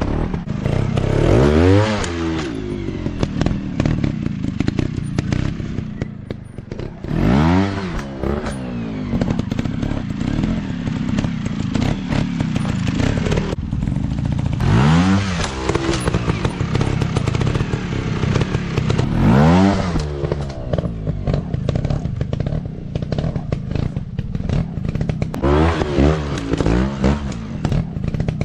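Dirt bike engines running, revved up and back down in about five separate bursts over a steady engine drone.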